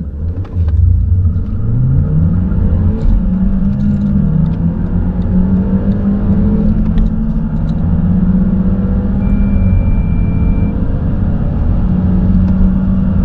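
Audi A4 turbocharged four-cylinder TFSI engine accelerating hard from a standstill, its pitch climbing and dropping back at each gear change.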